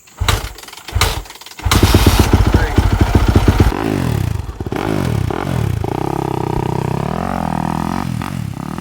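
Dirt bike being kick-started: a couple of kicks, then the engine catches about a second and a half in and is revved hard, and it keeps running with the throttle rising and falling as it warms up. The owner calls this engine clapped, with 250 hours on its original crank.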